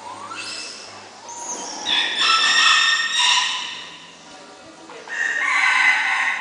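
Rooster crowing: two long crows, one about two seconds in and another near the end, after a fainter rising call at the start.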